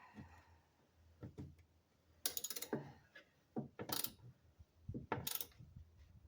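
Hand ratchet wrench tightening the tool box's mounting bolts in several short strokes of rapid clicking, with a few knocks between them.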